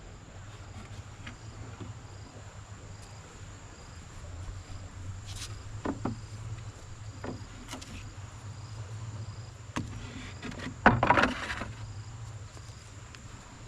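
Faint insect chirping repeating about once a second over a steady low hum, with a few scattered knocks. About eleven seconds in comes a louder, brief clatter of knocks.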